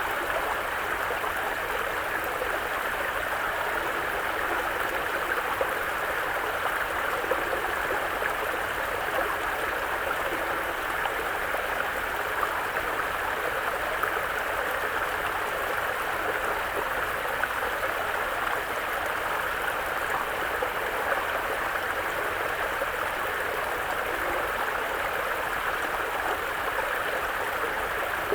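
Mountain brook flowing over rocks, a steady babbling rush of water with no breaks.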